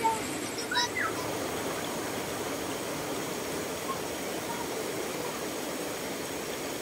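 River water rushing steadily past the campsite, with a couple of short high calls about a second in.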